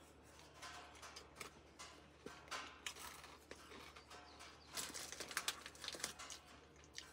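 Faint, irregular crunching of whale-shaped snack crackers being chewed.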